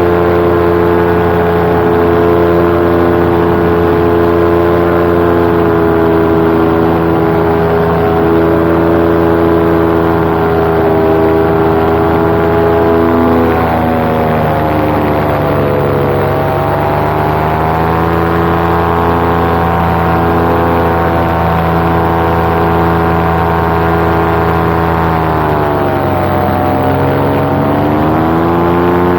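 Paramotor engine and propeller running steadily in flight. About halfway through the throttle is eased, so the note falls and then climbs back. Near the end it falls and climbs again.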